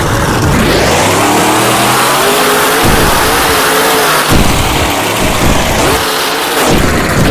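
Grave Digger monster truck's supercharged V8 engine revving hard, its pitch climbing and dropping again several times as the throttle is worked.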